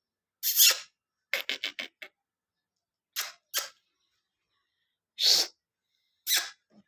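Pet parrot giving a series of short, harsh squawks, with a quick run of four about a second and a half in.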